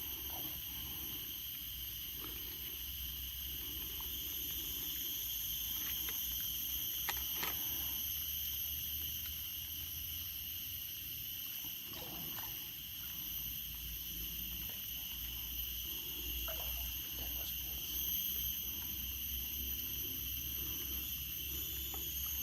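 Steady high-pitched insect chorus, several level tones held unbroken, with a few faint clicks scattered through it.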